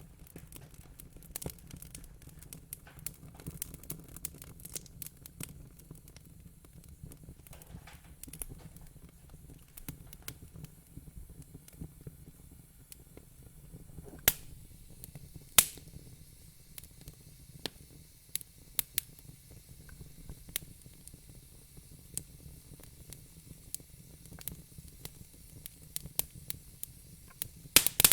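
Burning logs in a fire pit crackling, with scattered sharp pops, two louder ones about halfway through and a quick cluster near the end, over a steady low hum.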